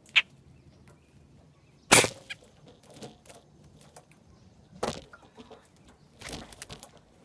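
Sharp cracks and knocks, the loudest about two seconds in, with a trapped blackbird fluttering in a wire cage trap.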